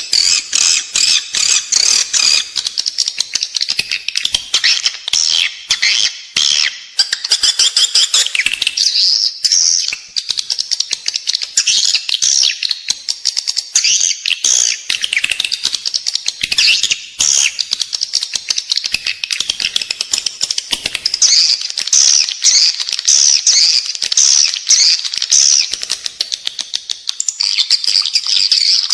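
Edible-nest swiftlets twittering and chirping in a dense, continuous chatter of rapid high calls. This is the lure call used inside a swiftlet house to draw birds in to nest.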